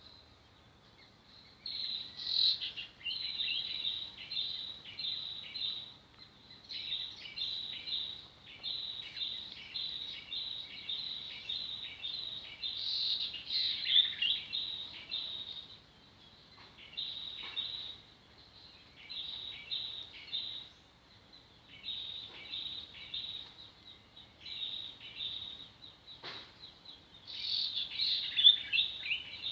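A bird calling in the open, a series of short high chirps about two to three a second, in phrases of several seconds with short pauses between them.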